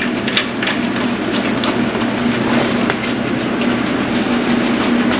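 Steady rushing mechanical noise with a constant low hum, and scattered light metallic clicks and clinks of hand tools on the engine.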